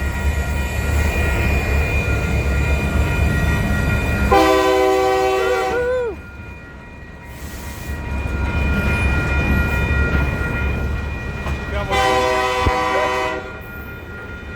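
Short freight train rolling past with a steady low rumble. The locomotive's air horn sounds twice, a chord of several notes, each blast about a second and a half long. The second blast comes about 12 seconds in.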